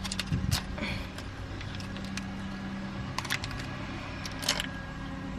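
Scattered light clicks and rustles of small objects being handled, over a steady low hum.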